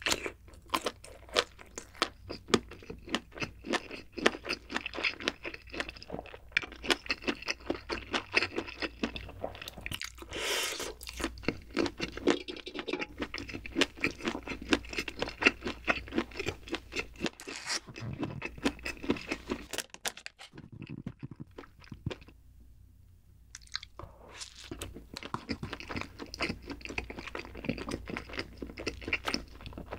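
Close-miked chewing of a skewered convenience-store sausage, a dense run of bites and chews. After a brief pause about two-thirds through, the chewing resumes on a soft white-bread sandwich.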